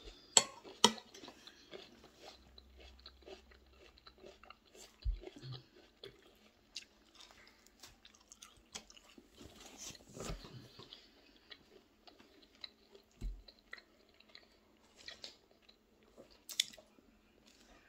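A person chewing and biting food close to the microphone, with crunchy bites and wet mouth clicks at irregular moments and two sharp clicks about half a second in. The food is scrambled eggs with onion and olives, and a strip of bacon bitten into by hand.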